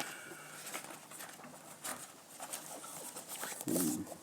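Faint rustling and light taps of a paper programme's pages being handled and turned, with a short low murmur a little before the end.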